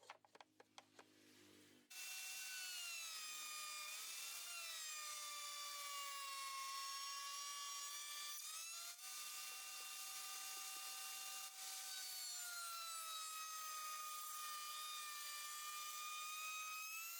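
Power tool cutting wood: a steady motor whine whose pitch sags slowly under load and recovers. It comes on about two seconds in, after a few light clicks, and drops briefly twice.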